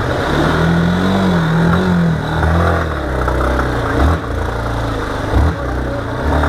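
Motorcycle engine revving under throttle, its pitch rising about half a second in and falling back after about two seconds, then running on with brief drops in revs twice.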